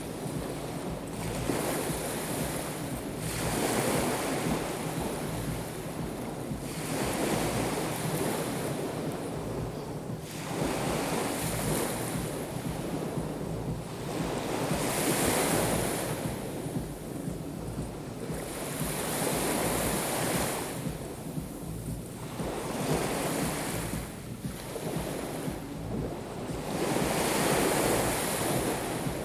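Black Sea waves washing onto the shore, one swell breaking and draining about every four seconds, with wind rumbling on the microphone.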